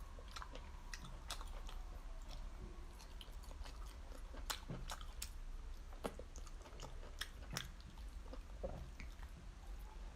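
Close-miked chewing and biting on an oyster skewer, with scattered sharp clicks of the mouth and food.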